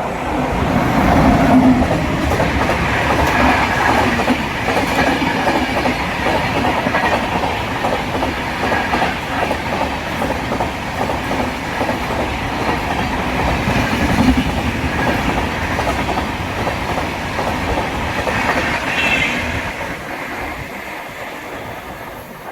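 Express train passing at speed, its wheels clattering over the rail joints in a continuous clickety-clack. The sound fades away over the last few seconds as the train clears.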